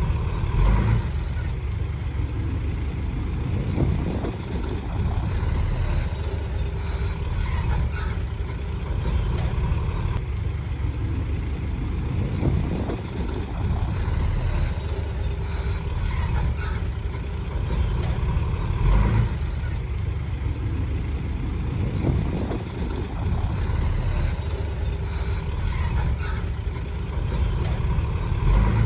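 Heavy diesel earthmoving machinery running steadily, a deep engine sound with brief louder swells every few seconds.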